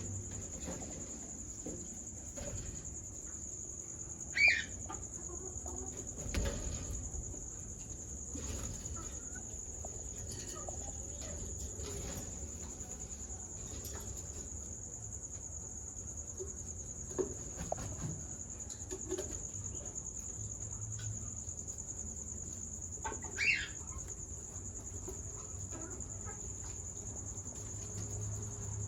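Bengalese finches giving two short, sharp calls, one about four seconds in and one past the twenty-second mark, with a few faint ticks between. Under them runs a steady high-pitched tone and a low hum.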